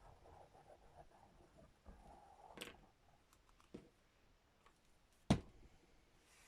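Quiet hand-handling sounds of craft work: soft rustling and a few small clicks, with one sharp knock a little over five seconds in.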